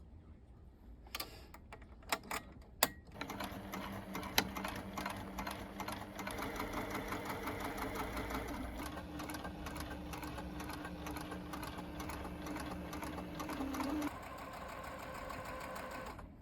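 Sewing machine stitching steadily at speed, after a few sharp clicks at the start. It runs more quietly for the last couple of seconds and then stops abruptly.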